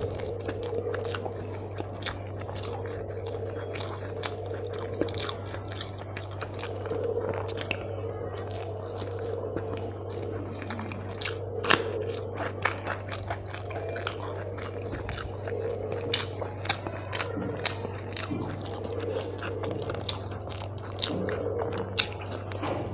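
Close-miked eating: a person chewing rice and curry eaten by hand, with many sharp crunchy bites and wet mouth clicks, the loudest crunch about halfway as she bites into a raw green chilli. A steady low hum runs underneath.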